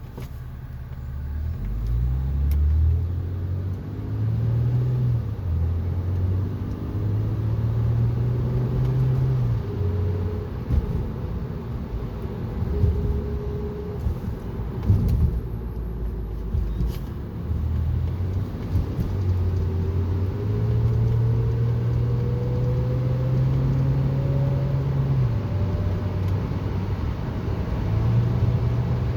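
A 2006 Honda Accord V6 driving, heard from inside, with its engine note stepping up and down. Above it a thin whine rises steadily in pitch over the second half as the car gathers speed. The owner cannot say what causes the whine.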